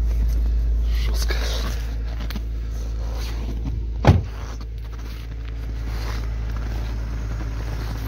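Hyundai Santa Fe Classic's V6 engine idling steadily with a low hum, with a single loud thump about four seconds in.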